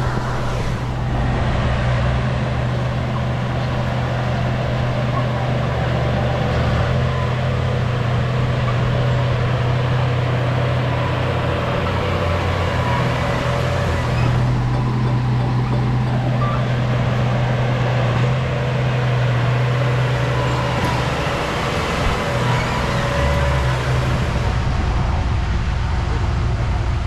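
Bulldozer's diesel engine running steadily with a deep hum and a faint high whine over it.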